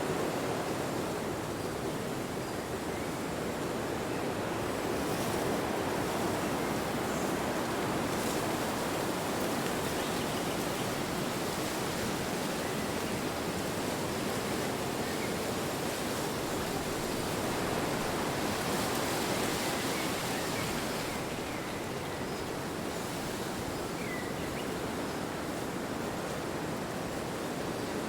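Wind blowing steadily, an even rushing noise that swells and eases slightly.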